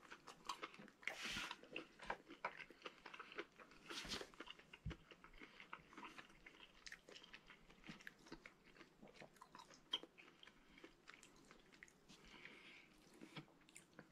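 A man chewing a bite of cooked meat close to the microphone: faint, irregular wet clicks and smacks of the mouth, with two louder bursts about a second and four seconds in.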